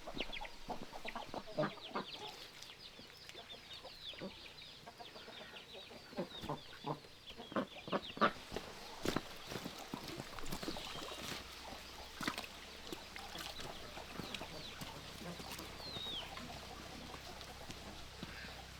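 Domestic chickens clucking, with short high falling peeps scattered throughout. Many short knocks and clicks come over the first half.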